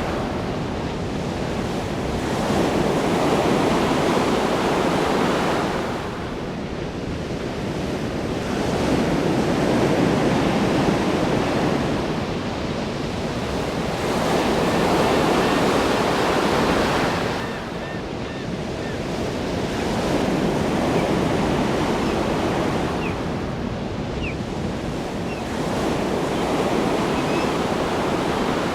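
Ocean waves breaking on a shore: a steady hiss of surf that swells and ebbs in slow surges, one about every five to six seconds.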